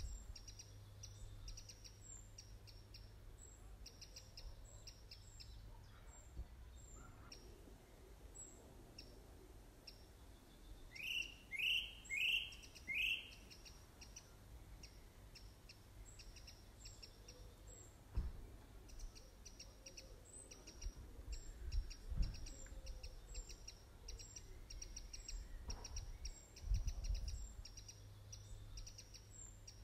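Birds calling: steady, rapidly repeated high chirping, with four loud rising calls in quick succession about eleven seconds in. A few low thumps come later.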